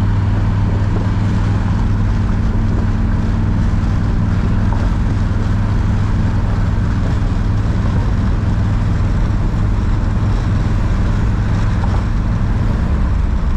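Engine running steadily at constant speed, a deep even drone with no revving.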